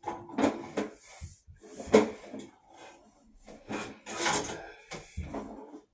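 Push-rod drain inspection camera scraping and knocking as it is fed along a drain pipe, in a run of irregular rubs and bumps with a sharper knock about two seconds in.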